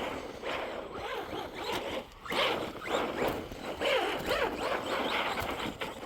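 Electric RC truck's motor whining up and down in pitch with repeated bursts of throttle, over a hiss of tyres churning through snow.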